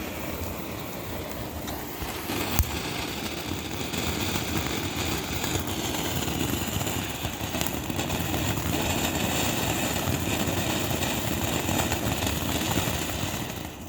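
TNT Dazzle ground firework burning with a steady rushing hiss of sparks, with one sharp crack about two and a half seconds in. It dies away right at the end.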